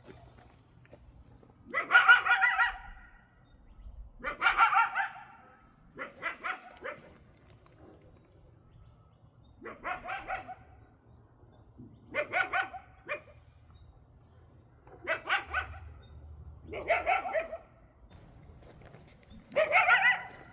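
Coyote barking and yipping in about eight short bouts, each a second or so long and some broken into quick pulses, repeating every two to three seconds.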